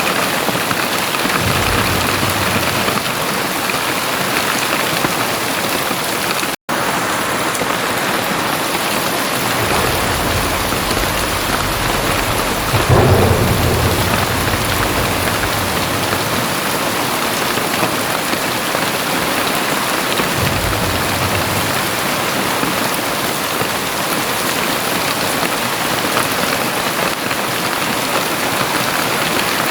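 Very heavy rain falling as a dense, steady wash. Low rumbles of thunder roll in several times, the loudest about halfway through. The sound cuts out for an instant about a quarter of the way in.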